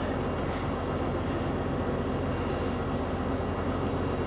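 Large diesel truck engine running steadily with a low, even drone.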